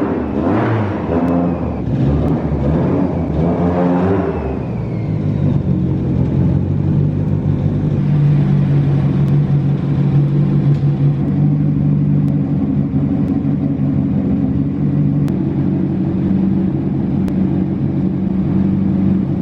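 Car engine running under way: it revs up and down for the first few seconds, then settles into a steady drone from about five seconds in.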